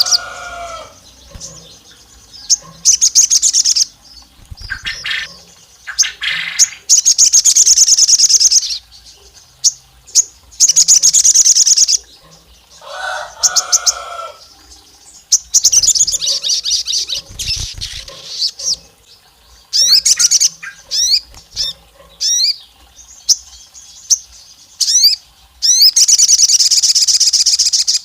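Crested jay (sogon) calling: loud, fast rattling trills in bursts of one to two seconds, repeated about every two to three seconds, with several short rising chirps between them in the second half.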